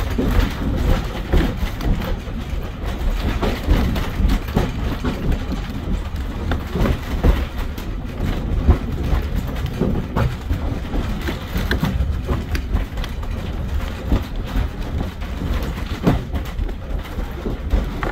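Ride noise of a 2-foot narrow-gauge railroad passenger coach in motion, heard from inside the car: a steady low rumble of wheels on rail with frequent irregular clacks and rattles.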